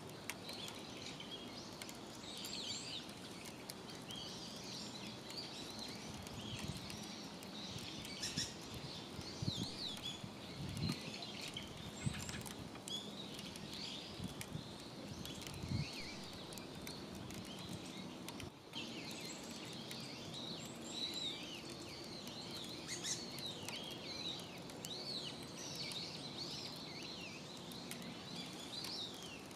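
Small birds chirping and twittering on and off, many short calls overlapping, over a steady outdoor background. A few sharp clicks and some low thuds come in the middle.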